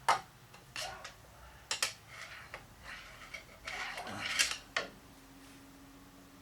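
Metal tools and parts clinking and scraping by hand, a handful of sharp irregular clinks with a stretch of scraping about four seconds in. A faint steady hum starts near the end.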